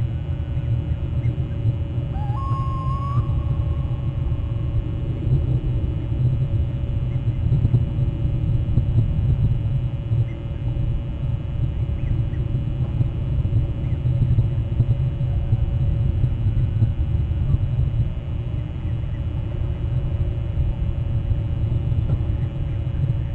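A steady low rumble throughout, with one bird call about two seconds in: a short note that rises and then holds steady for about a second.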